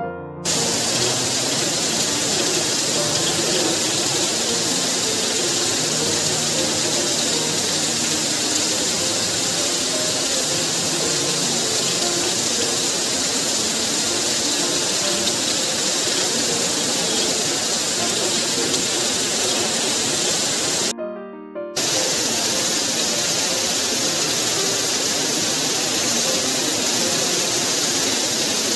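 Heavy rain pouring down, with a stream of water from a roof downspout splashing onto concrete, and background music underneath. The sound cuts out for under a second about 21 seconds in.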